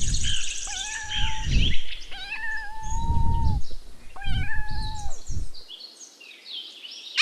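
Kitten meowing repeatedly: four high, drawn-out meows, the longest lasting about a second. The calls stop about two seconds before the end, leaving faint high chirping.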